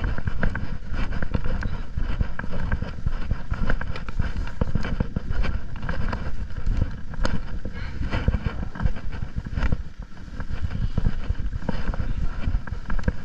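Wind buffeting the action camera's microphone while riding a motorcycle, a loud, continuous rough rumble with road and engine noise underneath.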